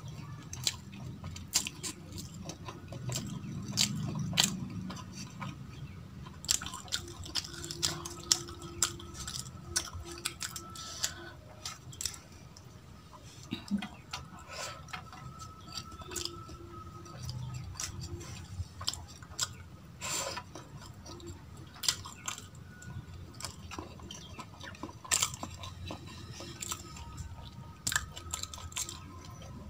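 Close-miked eating sounds of a person eating rice and dal by hand: wet chewing with many irregular sharp mouth clicks and smacks. Near the start, fingers scrape rice off a steel plate.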